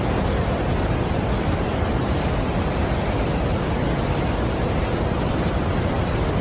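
Steady, unbroken rushing of a large waterfall, an even noise heaviest in the low end.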